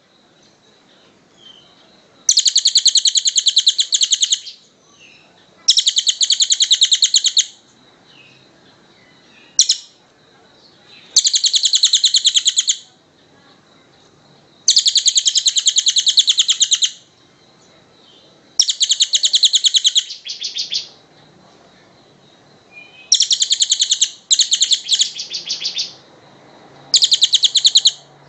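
Tengek cililin bird singing: a series of fast, rattling trills, each about two seconds long, repeated every few seconds with short pauses between.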